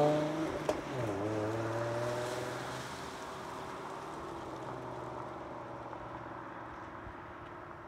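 Ford Mustang's engine pulling away, its pitch rising, dropping once about a second in at an upshift, then climbing more gently and fading as the car moves off into the distance.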